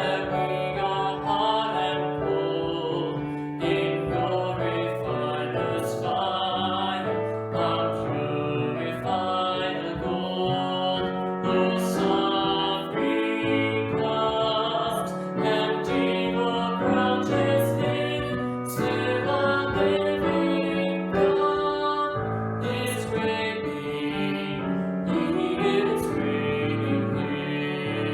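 A worship song: singing with piano accompaniment.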